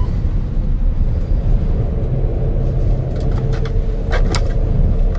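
Steady low rumble of air rushing past an airliner's cockpit as it glides with both engines shut down. A faint steady tone joins about two seconds in, and a few soft clicks come in the second half.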